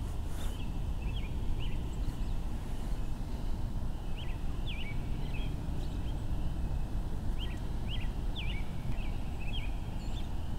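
Small birds chirping, short quick high notes in three loose clusters (near the start, around the middle, and late on), over a steady low rumble.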